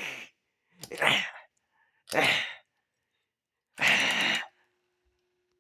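A person's breathy exhalations, like sighs, four times, each about half a second. A faint steady hum starts near the end.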